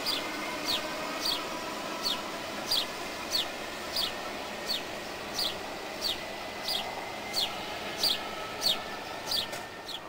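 Trenitalia electric multiple unit running through the station at reduced speed, a steady rumble of wheels and motors with a faint whine. Over it, a short high chirp falling in pitch repeats about every two-thirds of a second.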